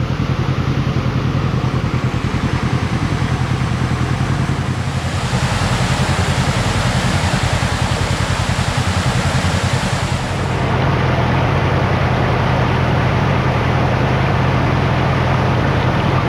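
Side-by-side UTV engine running steadily as it drives the trail, with a loud rushing noise joining about five seconds in.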